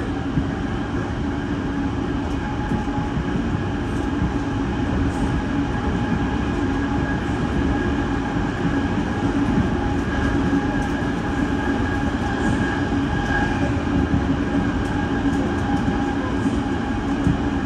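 Electric commuter train running at a steady speed, heard from inside the car: an even rumble of wheels on rail with a steady humming tone from the drive that holds its pitch.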